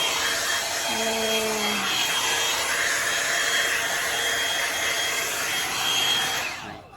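Drybar Double Shot blow-dryer brush running, a steady rush of air with a thin high whine, switched off about six and a half seconds in.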